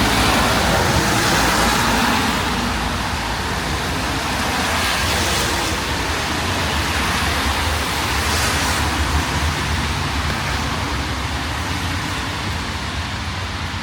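City street traffic: a steady wash of passing cars with a low rumble underneath, swelling a few times and easing slightly toward the end.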